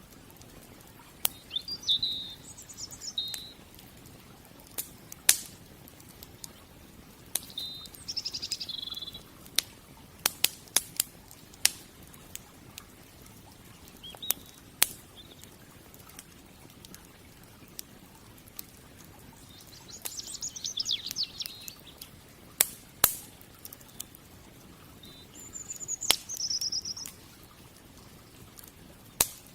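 Wood fire crackling with sharp, irregular pops, while small birds chirp and trill in short bursts every few seconds.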